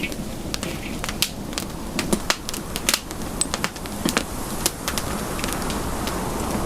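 Campfire crackling: many sharp, irregular pops and snaps over a low, steady rumble.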